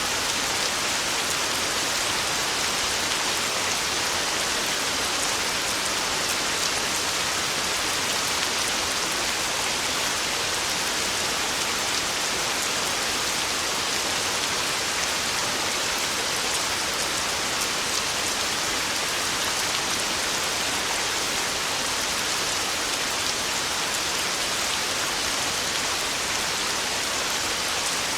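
Heavy rain falling on a tin roof, a steady, even hiss that does not change.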